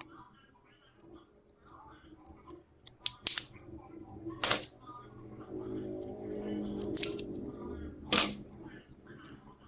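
A handful of sharp clicks and taps from small tools and phone parts being handled, the loudest about eight seconds in, over a faint low hum.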